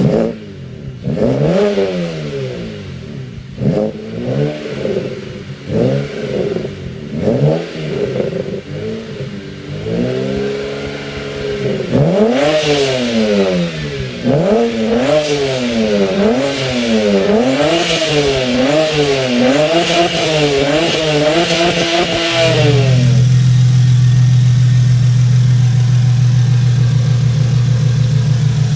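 Turbocharged BMW N54 inline-six revved in a long run of quick blips, each rising and falling, for about twenty seconds. It then holds at a steady engine speed for the last six seconds.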